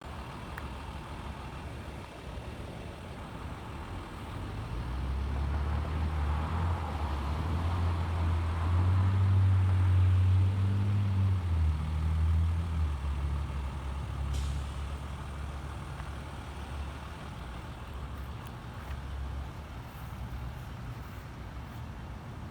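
Heavy truck engine running, swelling louder over several seconds with a few shifts in pitch, then fading back to a low rumble. One sharp click partway through.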